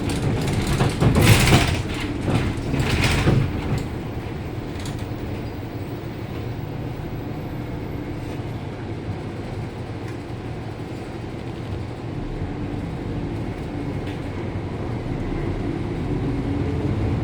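Daewoo NEW BS106 NGV city bus heard from inside, its Doosan GL11P natural-gas engine running steadily. There are short bursts of air hiss about one and three seconds in, and the engine grows louder over the last few seconds.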